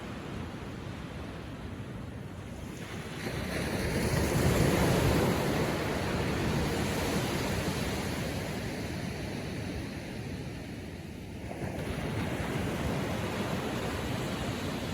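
Atlantic surf washing gently onto a sandy beach. One wave builds about three seconds in and is loudest a second or so later, and another comes in near the end.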